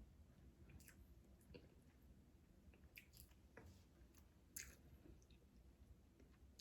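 Faint chewing with scattered small clicks and crackles, about a dozen irregular ticks over a near-silent background.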